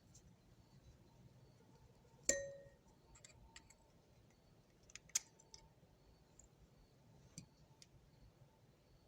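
Small metal parts of a Craftsman thumbwheel ratchet clinking as it is taken apart: one sharp clink with a brief metallic ring about two seconds in, then a scatter of lighter clicks and taps.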